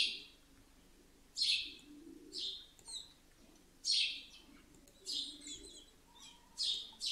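A bird chirping: short high chirps repeated about once a second, some in quick pairs.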